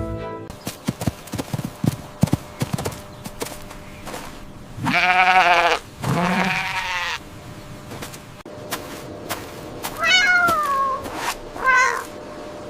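A goat bleating twice in long, wavering calls about five and six and a half seconds in, after some scattered clicks and rustling. Near the end a cat meows twice in shorter, falling calls.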